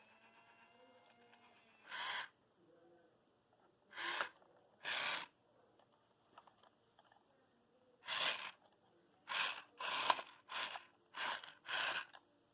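Remote-control toy construction vehicle running in short stop-start bursts, its small electric motor and plastic gears whirring nine times, each burst about half a second, as the controls are pressed and released.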